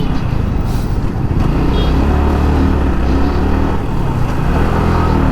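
Motorcycle riding at low speed through town traffic: a steady low engine drone, with a brief high beep right at the start.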